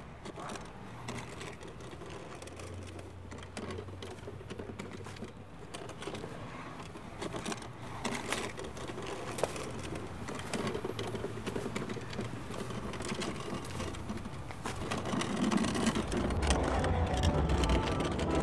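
Heavy old wooden storage chest (nagamochi) dragged by rope over pavement: a continuous rough, rattling scrape that grows louder as it comes closer. A low rumble joins in near the end.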